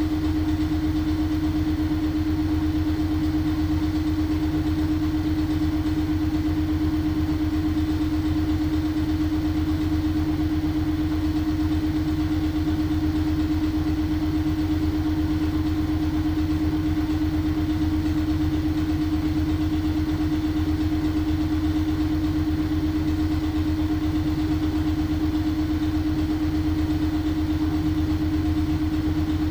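LG washing machine running with a steady mechanical hum, one clear steady tone riding over a low, rapidly pulsing drone, unchanging throughout.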